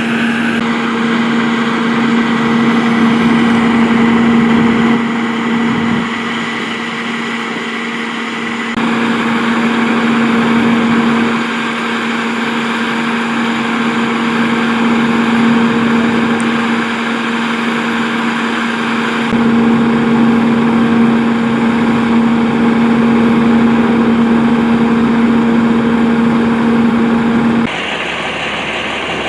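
A large vehicle engine idling with a steady hum, over a background of traffic-like noise. The sound shifts abruptly about 9, 19 and 28 seconds in.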